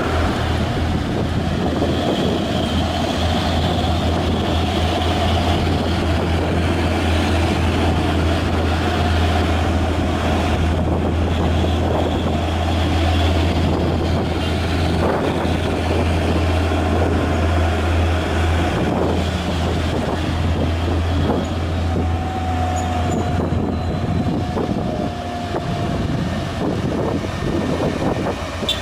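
Heavy truck's diesel engine pulling hard under load on a hill climb: a steady low drone with a thin whine above it.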